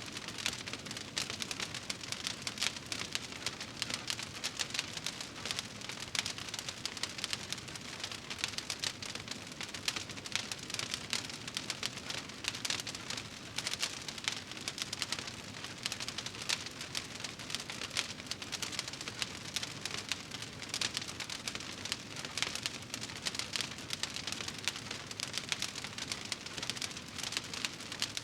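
Wood fire burning in a fireplace, crackling steadily with a dense run of small pops and snaps.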